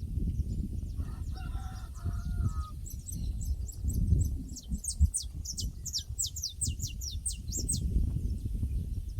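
Pasture ambience: a rooster crows faintly about a second in, then a small bird sings a fast run of high, downward-sweeping chirps. A low rumbling runs underneath throughout.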